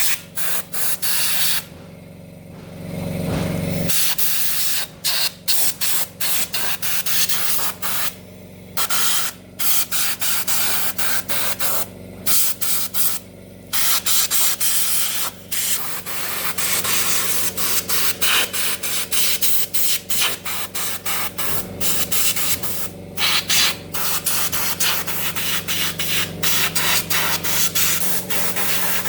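Compressed air hissing from a spray nozzle in many short, irregular spurts, cut off and restarted again and again, over a steady low hum.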